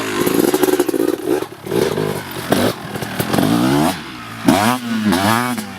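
Two-stroke dirt bike engine revving up and down several times, with quick blips of the throttle near the end. The rider says something in its power band isn't right.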